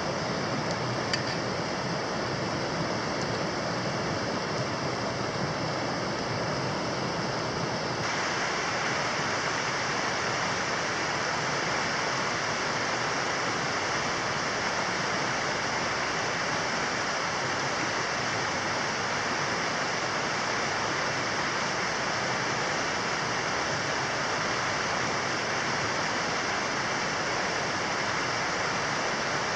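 Steady rushing of flowing water, turning brighter and fuller about eight seconds in.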